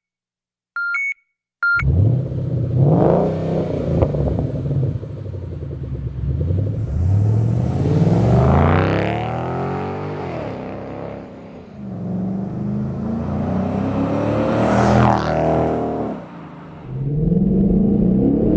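2011 Ford Mustang 5.0-litre V8 through an aftermarket stainless axle-back exhaust, revving and rising and falling in pitch three times, with a short drop near the end before it picks up again. A few short electronic beeps come before the engine starts, in the first couple of seconds.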